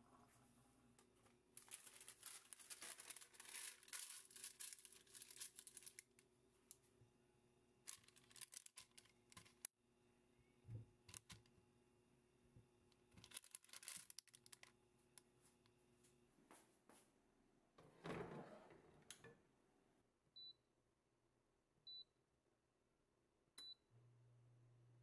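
Faint crinkling and rustling, as of something being handled or unwrapped, in several bursts, then a short thump, followed by three short high-pitched electronic beeps a second or two apart.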